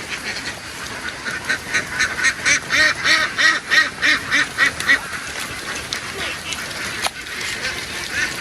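A flock of ducks quacking. There is a dense run of rapid calls, several a second, through the first half, then fainter scattered quacks, and a single sharp click a little past the middle.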